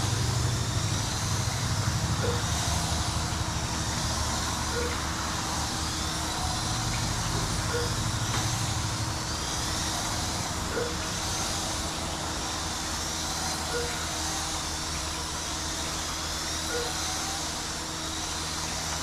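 Small electric motors of 1/18-scale RC racing trucks whining as the pack laps a small oval. The pitch rises in a sweep about every three seconds as the trucks accelerate out of the turns, over a steady hum.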